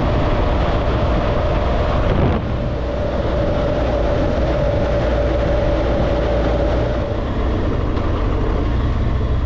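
BMW R1200GSA's boxer-twin engine running under way at road speed, mixed with wind rushing over the helmet microphone; a steady low rumble with a constant hum.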